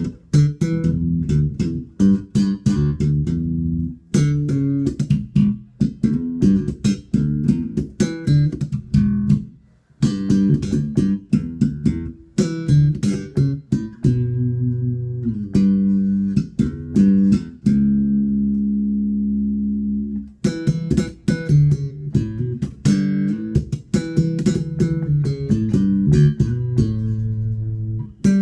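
Spector Euro 4 Classic electric bass with EMG pickups played solo through a Markbass Little Mark 58R combo amp on a scooped EQ setting. A busy line of sharp, percussive notes, with a brief break about ten seconds in and a held note about two-thirds of the way through.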